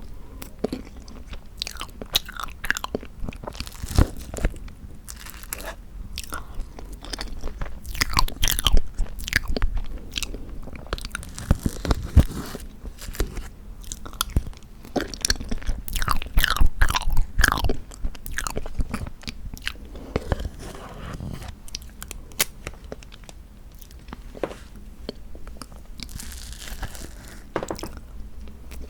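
Close-miked eating sounds of someone chewing tofu tiramisu cake: irregular wet clicks and smacks of the mouth, some louder bites standing out.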